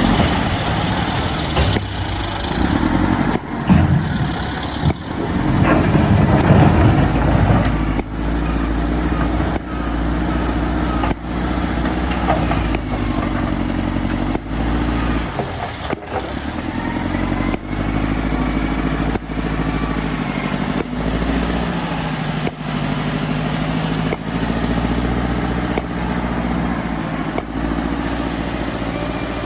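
Heavy diesel machinery engine running steadily, with a louder, rougher stretch in the first several seconds.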